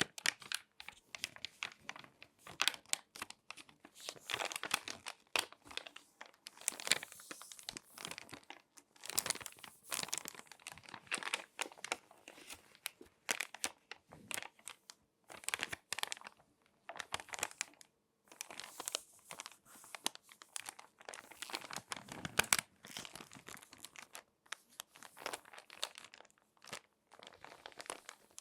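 Magazine pages being folded and crinkled by hand close to the microphone: irregular clusters of crisp crackles and rustles, with short pauses between handlings.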